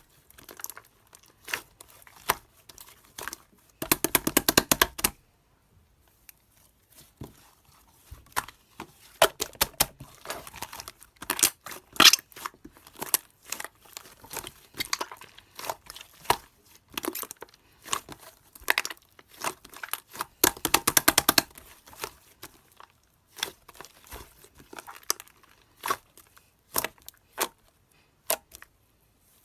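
Clear slime being squeezed and stretched by hand, giving sticky crackles and small air-bubble pops in irregular bursts. There are two dense runs of rapid clicking, about four seconds in and again about twenty-one seconds in.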